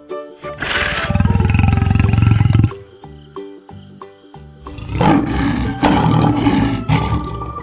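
Lion roaring twice: one long roar about half a second in and another about five seconds in, over steady background music.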